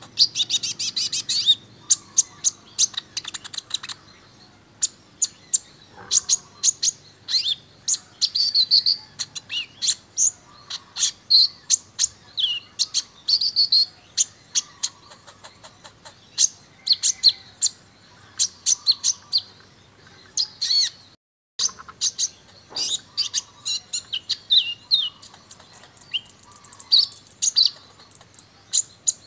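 Brown-throated sunbird (kolibri ninja) singing a busy song of rapid ticking trills and short high chirping phrases, with a brief cut-out about two-thirds of the way through.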